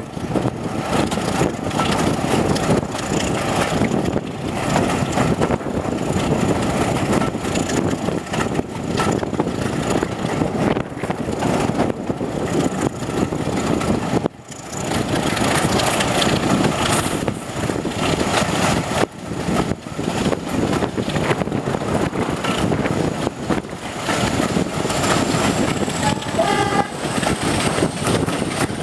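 Train running along, heard from an open coach window behind a BR Class 26 diesel-electric locomotive: loud wind rush over the mixed sound of wheels on the rails and the locomotive's Sulzer diesel engine working.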